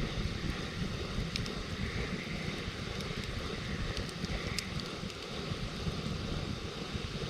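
Wood campfire crackling, with a few sharp pops, over a steady low rumble of wind on the microphone.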